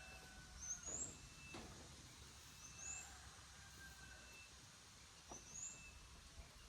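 Faint outdoor birdsong: three short, high, rising chirps about two seconds apart, with a thin short peep repeating between them, over a quiet background with a few faint clicks.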